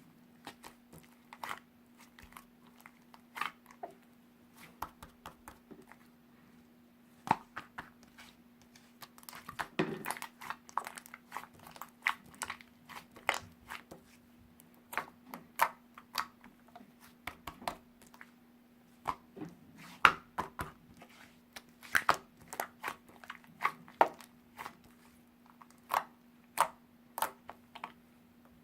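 Irregular crunching and crackling clicks, thicker in a few stretches, over a steady low hum.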